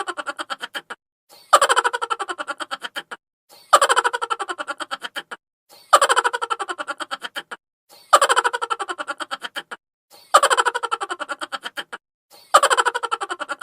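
High-pitched, chipmunk-style laugh sound effect played on a loop: each laugh starts loud and runs into a quick string of fading 'ha-ha' pulses, repeating about every two seconds, six times.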